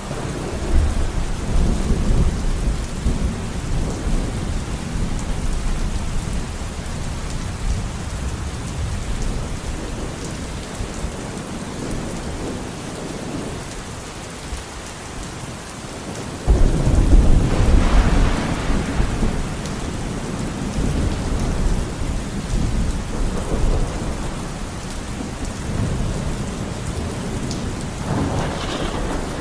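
Steady rain with rolling thunder. A louder thunderclap breaks in suddenly just past the middle, crackling and then rumbling away, with lower rumbles near the start and near the end.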